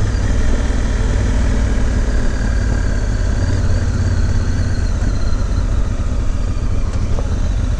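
Honda Africa Twin's parallel-twin engine running steadily at low revs, a constant low rumble with no revving.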